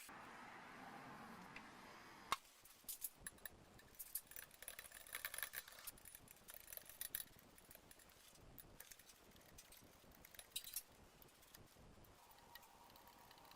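Faint, irregular light clicks and metallic clinks of small parts being handled, with one sharper click about two seconds in.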